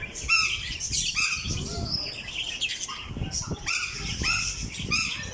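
Aviary birds calling and chirping, many short rising-and-falling calls in quick succession, with one loud bird standing out among them. The calls echo under the aviary's dome.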